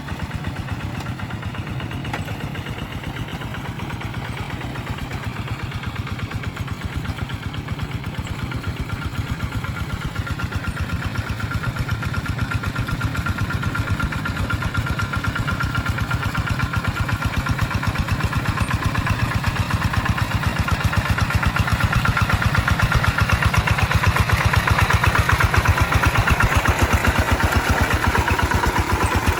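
Rice-field tractor's engine running steadily with an even, rapid chugging that grows louder through the second half.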